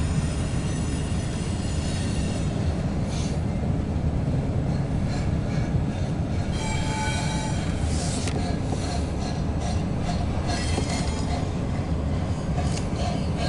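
Union Pacific double-stack intermodal freight train rolling across a steel girder viaduct: a steady low rumble of the cars, with high-pitched wheel squeal in the first few seconds and again about seven seconds in, and scattered clanks.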